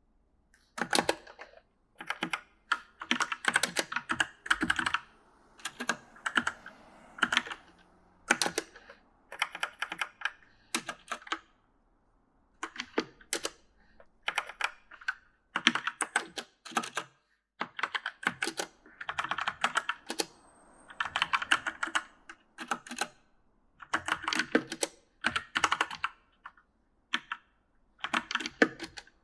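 Typing on a mechanical gaming keyboard: quick runs of key clicks in uneven bursts with short pauses between them, and a slightly longer break about twelve seconds in.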